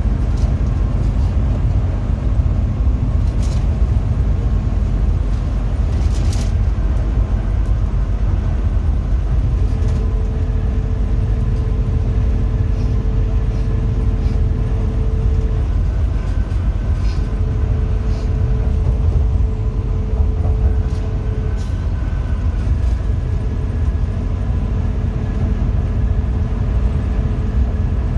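Coach bus with a Hino RM 280 engine under way: a steady low engine and road rumble, with a faint whine that comes and goes and a couple of brief clicks a few seconds in.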